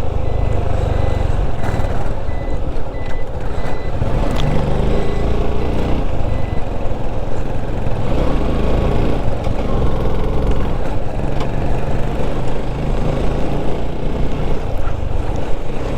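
Motorcycle engine running steadily under way, mixed with wind rush on the microphone.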